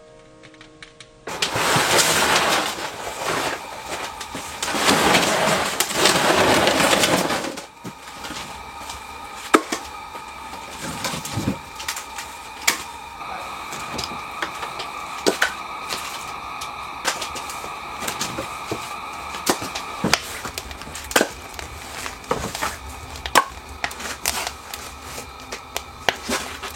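Kindling burning in a wood stove, crackling and popping with irregular sharp snaps. It is preceded by a loud, steady rushing noise that lasts about six seconds and stops abruptly.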